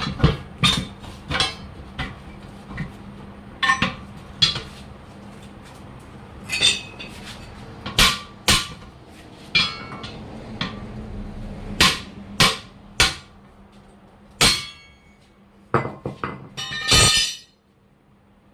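Irregular sharp metal strikes and clinks of hand tools, a hammer among them, working on a truck tyre and wheel, with a steady low hum underneath that cuts off near the end.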